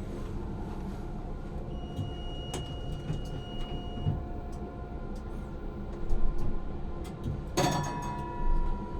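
Electric tram heard from inside the driver's cab: a steady low rumble and hum. A single high electronic tone sounds for about two seconds near the start, and a sharp ringing sound comes about three-quarters of the way through.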